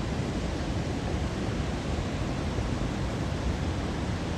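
Wind buffeting the microphone: a steady rushing hiss with an uneven low rumble.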